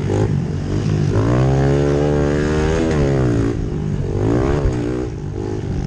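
Small single-cylinder pit bike engine buzzing at high revs, its pitch climbing and dropping several times as the throttle is worked on and off.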